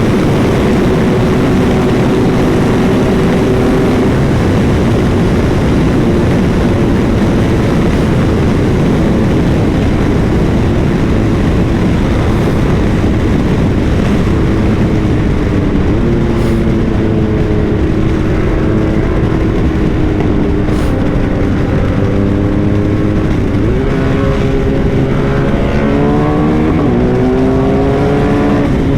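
Motorcycle engine running at speed under heavy wind rush. The engine note holds steady at first, shifts around the middle, then climbs in a series of rising sweeps near the end as the bike accelerates hard through the gears.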